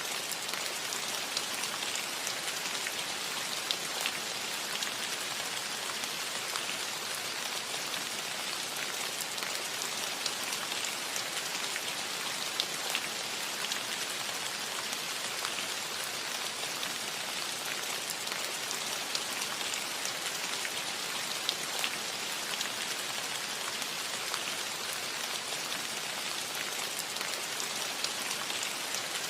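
Steady rain falling on a roof, an even hiss sprinkled with the faint clicks of single drops hitting.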